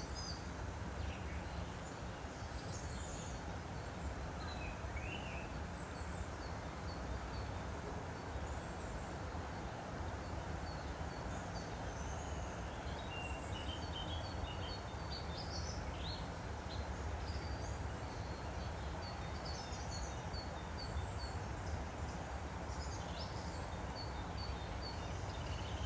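Woodland stream flowing steadily, with small birds chirping and calling throughout, including quick runs of repeated high notes.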